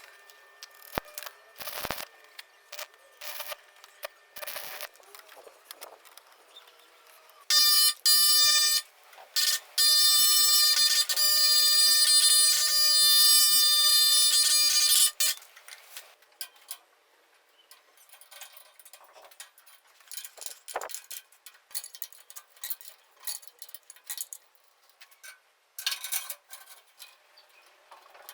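A small power tool's electric motor whining at a steady pitch, running for about a second, stopping briefly, then running about five seconds more, with scattered clicks and taps of tools and parts being handled before and after.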